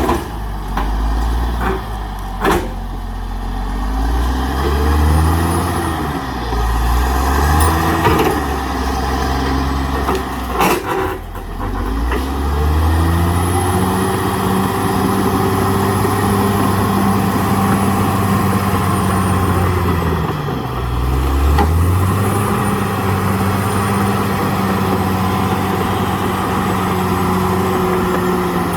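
CAT D6R XL bulldozer's diesel engine running hard, its note dipping and recovering several times as the load changes. A few sharp cracks or knocks cut through, one a few seconds in and one near the middle.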